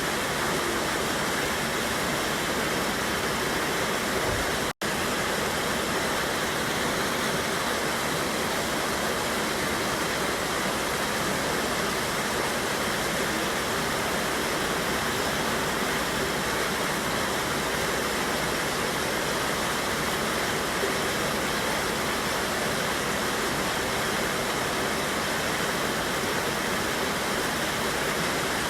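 River water pouring over a waterfall: a steady, even rush of water. It cuts out for an instant about five seconds in.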